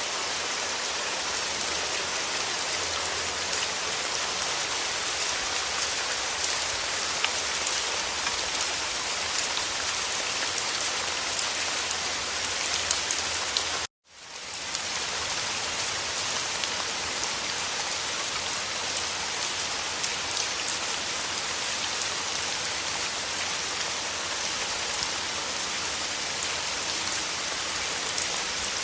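Steady rain tapping on a windowpane: a dense, even hiss of many small drop ticks on the glass. About halfway through it cuts out for a moment and fades back in.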